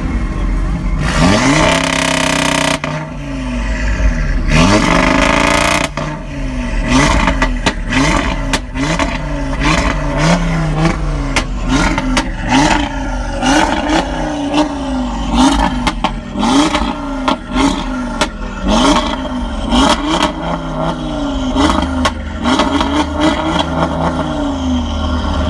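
Car engine revved hard over and over in quick blips, the pitch climbing and dropping about once a second, with many sharp cracks in between. Two loud rushing stretches come in the first few seconds.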